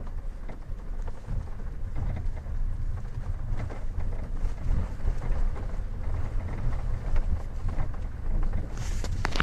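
2016 Hyundai Tucson TL driving over uneven road: a steady low road rumble with scattered knocks and creaks from the car. The creaks and knocks are the fault under investigation, the car creaking and making noise over bumps.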